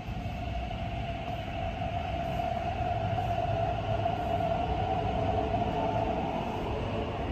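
MTR East Rail line electric train at the platform, a steady motor whine over low rumble, growing a little louder over the first few seconds.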